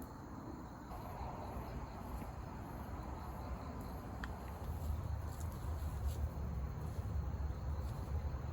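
Outdoor night-time ambience: insects chirping steadily, with a low rumble that grows from about halfway through and a few faint sharp clicks.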